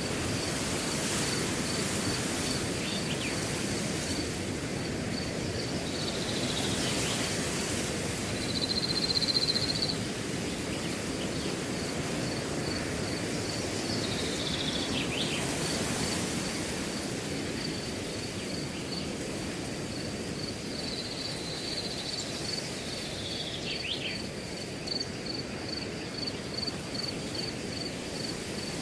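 Wind rushing steadily through a grass field, with a cricket chirping evenly about twice a second. A bird gives a short falling call three times, about eight seconds apart, and a brief buzz sounds about nine seconds in.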